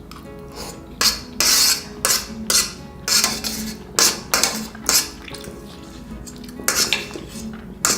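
Metal utensil scraping and clinking against a pan or dish in a run of about a dozen short, sharp strokes, with a quiet music bed underneath.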